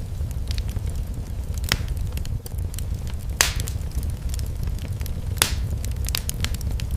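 Fireplace fire crackling with scattered sharp clicks over a steady low rumble, and three louder pops spaced about two seconds apart.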